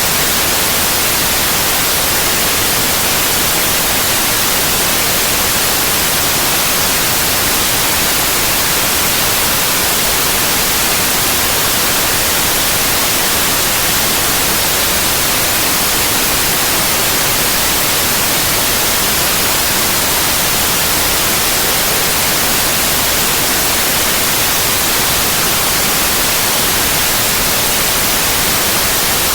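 Synthetic white noise: a steady, loud, unvarying hiss with no breaks or changes.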